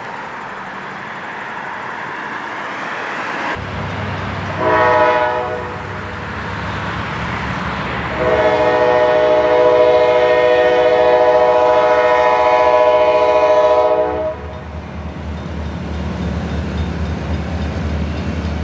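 Diesel freight locomotive running, sounding its multi-tone air horn: a short blast about five seconds in, then a long blast of about six seconds, with the engine's low steady sound carrying on after the horn stops.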